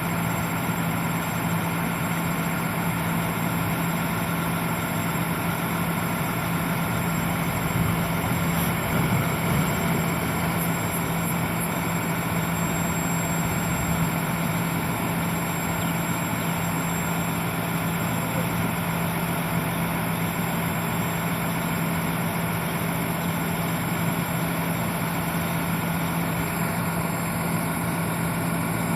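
Boom truck's engine running at a steady speed, a constant drone with a steady low hum throughout.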